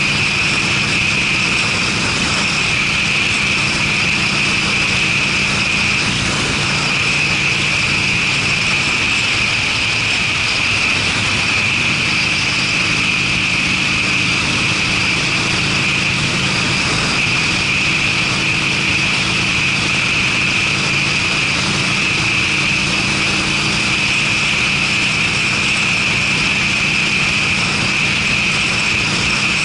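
Harley-Davidson Sportster's air-cooled V-twin running steadily under way through Screamin' Eagle aftermarket mufflers, with a steady high hiss over the exhaust note.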